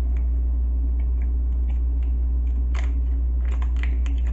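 Small crinkles and clicks of a drink-mix packet being opened with a knife and handled, a few scattered and most about three to four seconds in, over a steady low hum.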